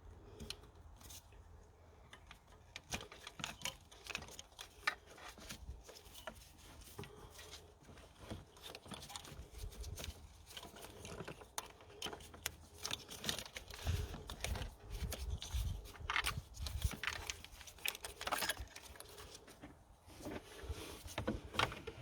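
Hand-handling noises in an engine bay: scattered clicks, light rattles and scraping of plastic wiring and connectors being pushed aside, with a few dull knocks about two thirds of the way through.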